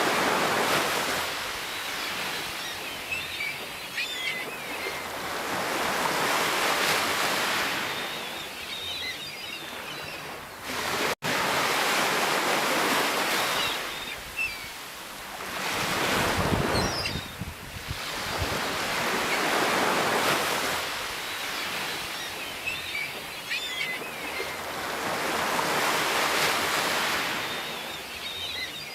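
Sea waves breaking and washing in, swelling and falling back every three to four seconds, with faint high chirps at times and a brief dropout about eleven seconds in.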